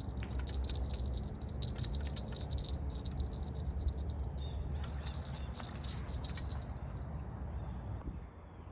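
A steady, high insect chorus, typical of crickets, that fades out near the end, with scattered light clicks and clinks over a low rumbling background.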